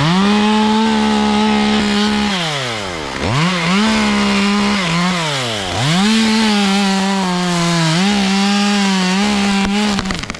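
Two-stroke chainsaw held at full throttle and cutting into wood, its engine tone falling away twice as the throttle is eased and climbing back each time, with a brief sag in pitch near 8 s, before it drops off near the end.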